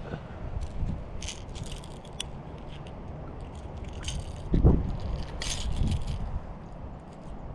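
Clicks, rattles and scrapes of fishing pliers working a hook out of a small fish's mouth. Wind rumbles on the microphone, and there is a heavier bump about halfway through.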